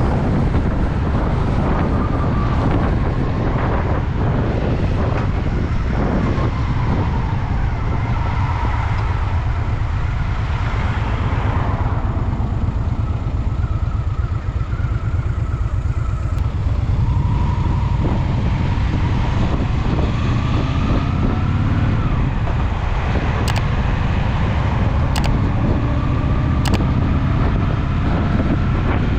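Honda Shadow VT750's V-twin engine running on the move, its pitch rising and falling with the throttle and easing off through a quieter stretch in the middle. Three short clicks come near the end, about a second and a half apart.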